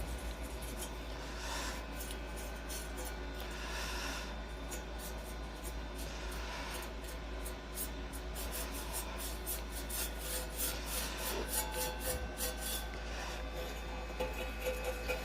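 Brush strokes rubbing rust converter onto a metal ring, slow swishes at first and then quicker scrubbing strokes in the second half, over a steady low hum.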